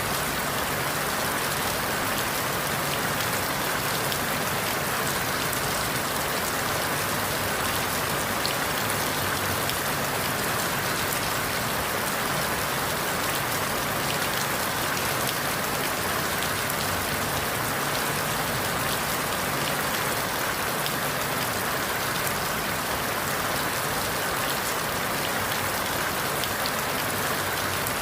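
Steady rain falling through forest leaves, an even hiss of rain with scattered drop ticks.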